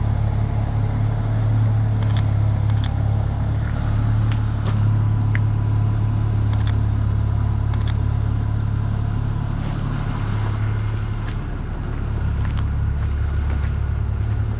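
Steady low rumble of a motor vehicle's engine running close by, with a few sharp clicks over it.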